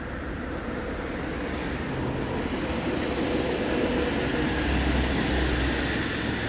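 A passenger train approaching on the line, its running noise growing steadily louder with a faint steady hum.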